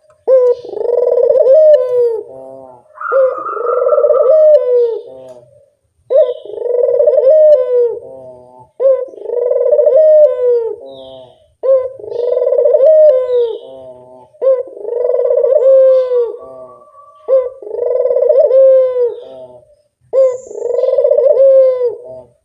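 Barbary dove (burung puter) cooing over and over, about one phrase every two seconds. Each phrase is a low, rolling coo of about a second and a half. A thinner, higher steady note sounds behind it twice.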